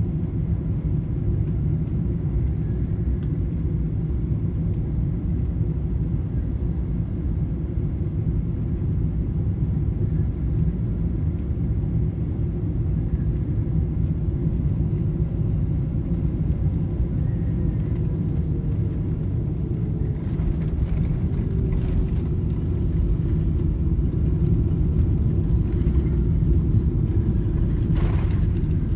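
Steady low rumble of a Boeing 777-300 heard from inside the cabin, with a faint tone gliding slowly down in pitch through the middle. A few light clicks and knocks come near the end.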